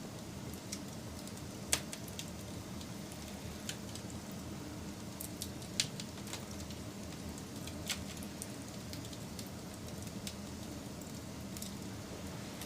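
Wood fire burning with a steady low rumble, broken by sharp crackles and pops from the burning logs, the loudest about two, six and eight seconds in.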